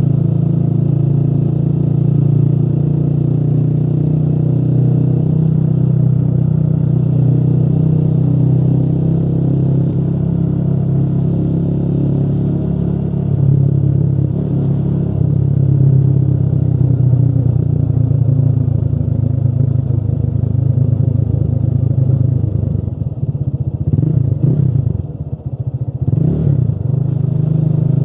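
Motorcycle engine running steadily while riding. Near the end the engine sound drops briefly and its pitch falls and rises again, as when the rider eases off and opens the throttle again.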